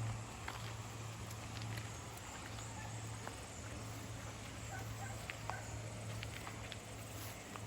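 A steady low hum, with a few faint, scattered short chirps and clicks over it.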